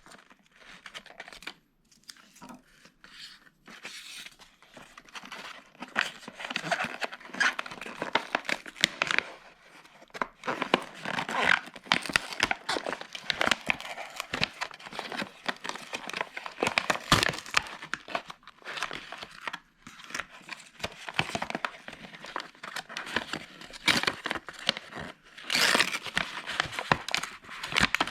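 Product packaging being torn open and crinkled by hand: irregular crackling and tearing, louder a few seconds before the end.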